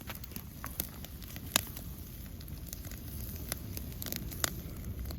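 Food sizzling in a small cast iron skillet, crackling steadily with scattered sharp pops; the loudest pop comes about a second and a half in.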